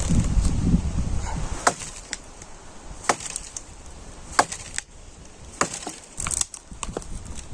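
Wind buffeting the microphone for about the first second and a half, then a scattering of about a dozen sharp, irregular clicks and knocks of things being handled.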